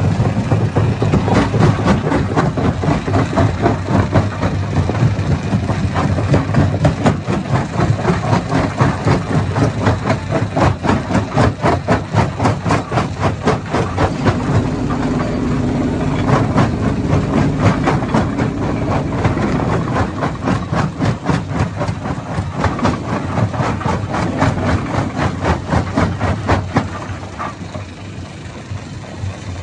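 Hammer stone crusher running under load: a dense, rapid clatter of rock being smashed inside the machine over the steady drone of its engine. The clatter eases a little near the end.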